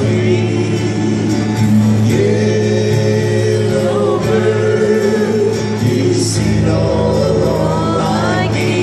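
A group of voices singing a slow song over instrumental accompaniment with a steady bass line.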